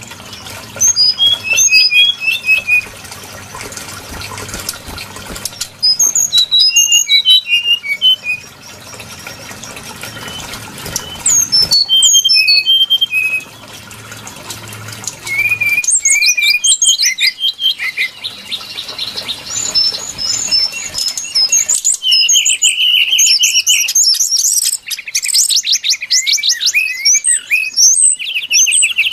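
Brown-chested jungle flycatcher song: short phrases of clear whistled notes a few seconds apart, turning into near-continuous, fast, trilling song in the last several seconds.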